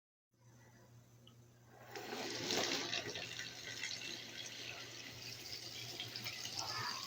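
Water running, coming on strongly about two seconds in and then flowing steadily, over a faint steady low hum.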